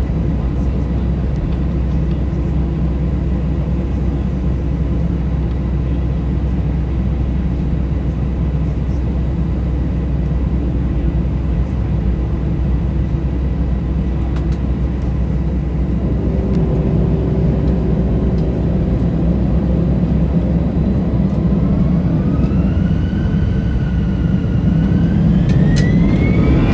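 Airbus A320 jet engines heard from inside the cabin: a steady low rumble, then in the last few seconds a rising whine as the engines spool up to more thrust.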